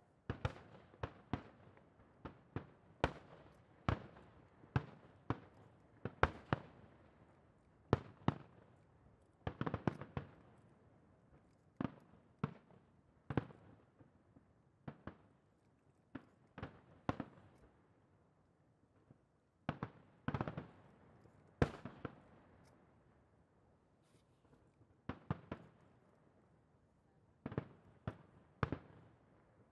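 Aerial firework shells bursting in an irregular run of sharp booms, about one a second and sometimes bunched two or three together, each trailing off in a short echo. There is a brief sparser spell in the middle.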